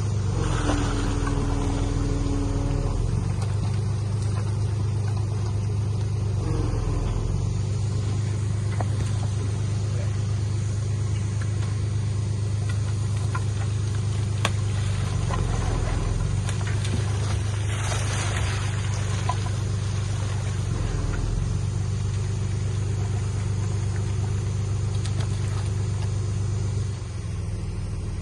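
Diesel engine of heavy earthmoving equipment running steadily with a deep hum, growing quieter near the end.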